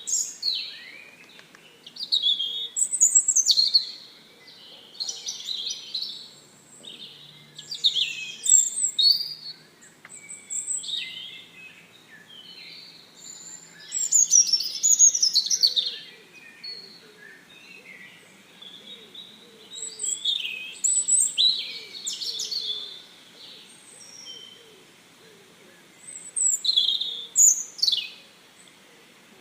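Songbirds chirping and singing, several overlapping high, quick phrases and trills coming in bouts every few seconds.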